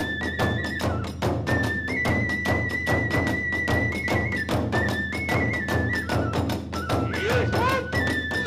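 Hiroshima kagura music: a bamboo transverse flute playing a high melody of held notes that step up and down, over a fast, steady beat of drums and hand cymbals. Near the end, short swooping pitch sweeps join in.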